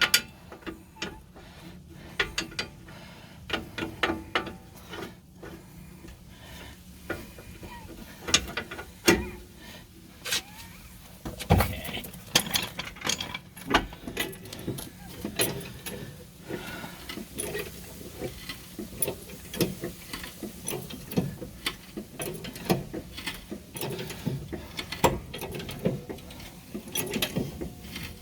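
Irregular metallic clicks and knocks of hand tools and suspension parts as a replacement rear strut is worked into place.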